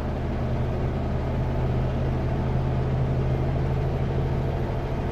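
Kenworth W900L semi truck's diesel engine running steadily under way, a deep steady drone with road noise underneath.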